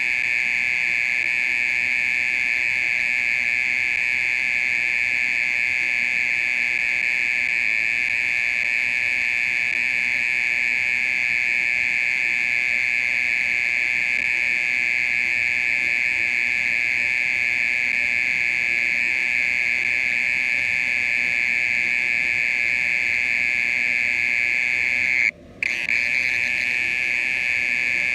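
Oriental mole cricket (Gryllotalpa orientalis) singing: a loud, steady, unbroken buzzing trill, with one brief break about 25 seconds in.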